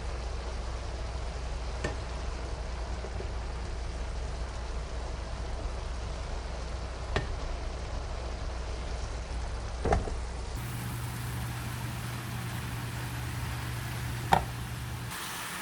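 Noodles and vegetables sizzling in a hot pan as they are stirred and tossed, with a few sharp knocks of the stirring utensil against the pan.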